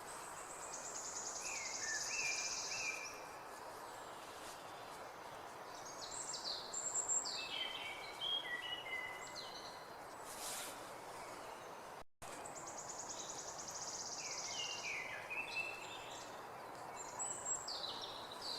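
Songbird singing over a steady background rush: a fast high trill followed by a run of falling whistled notes. The same phrase comes twice, with a brief dropout between, as in a looped recording.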